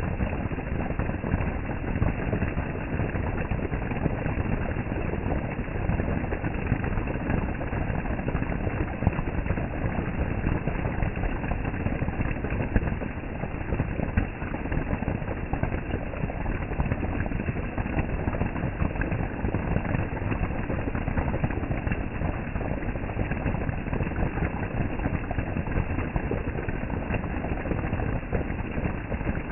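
Heavy rain pouring down steadily, a dense, even patter and rush with no let-up.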